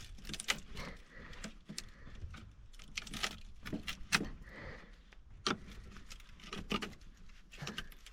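Hand tools clinking and tapping against metal parts while a fastener is tightened: irregular metallic clicks and knocks, a few louder ones among them.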